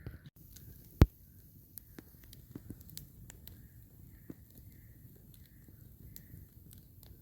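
Wood campfire crackling: scattered irregular pops and snaps, one much louder pop about a second in.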